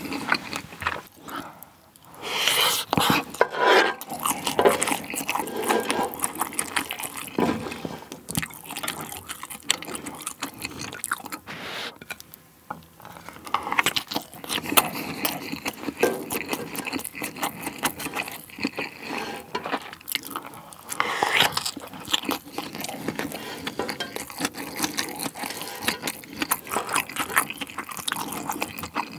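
Close-miked chewing of fried rice with seaweed flakes: wet, sticky mouth sounds and small crunches, mixed with a spoon scraping and tapping rice across a metal griddle tray.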